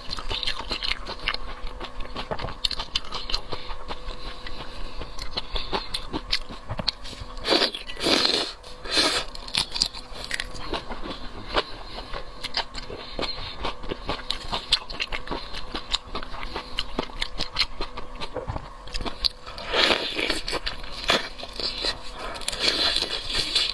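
Close-miked eating of shrimp: chewing and biting with many small wet clicks and crackles, and a few louder stretches of chewing.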